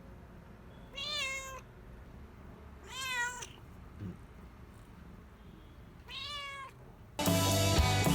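A cat meowing three times, each meow about half a second long with a wavering pitch. Music cuts in suddenly near the end, louder than the meows.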